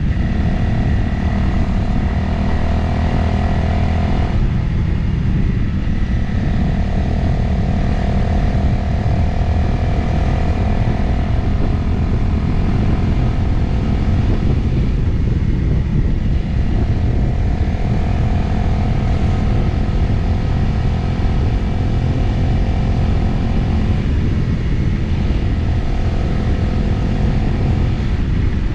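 Motorcycle engine running steadily at road speed under heavy wind rush on the camera microphone. The engine note drops away briefly three times, about 4, 15 and 24 seconds in.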